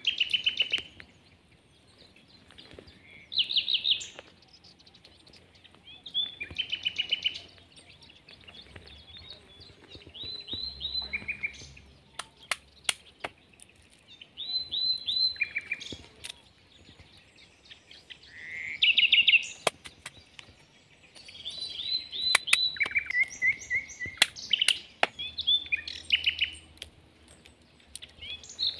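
A songbird singing short phrases of fast repeated notes, one phrase every few seconds, with scattered sharp clicks in between.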